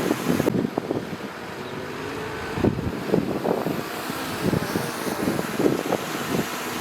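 Bulldozer's diesel engine running under load while pushing dirt, with irregular clanking and knocking throughout.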